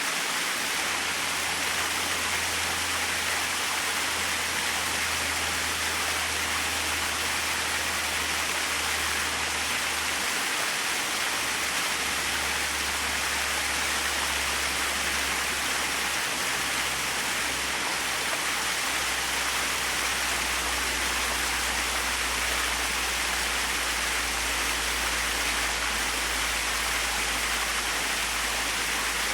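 Small waterfall: a steady, even rush of falling water with no breaks.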